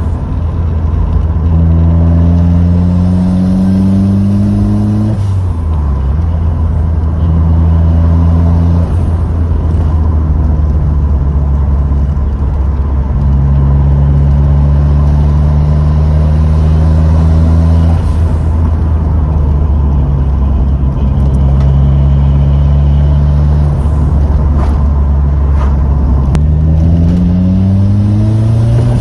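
Ford Sierra RS Cosworth's turbocharged four-cylinder engine under way on the road. Its note climbs as the car accelerates in the first few seconds and drops sharply at a gear change about five seconds in. It holds steady while cruising through the middle, with a few more steps in pitch, then climbs again near the end as it accelerates once more.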